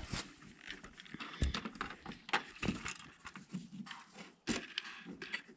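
Irregular light clicks and knocks of objects being handled, a few every second.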